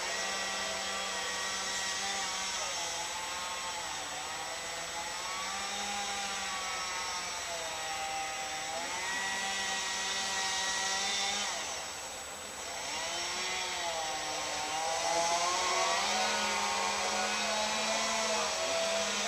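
Two-stroke chainsaw running, its pitch rising and falling slowly with the throttle.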